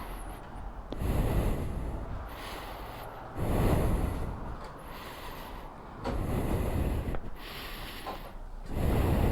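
Heavy breathing close to the microphone, four breaths at an even pace of about one every two and a half seconds.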